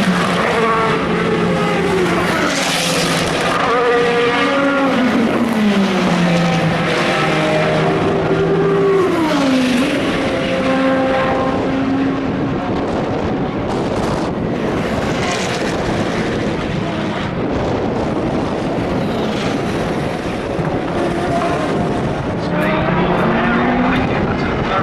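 Endurance race cars running at race speed, several engines at once. Engine notes fall in pitch a few times in the first half, as with cars braking and changing down, and one note rises near the end as a car accelerates away.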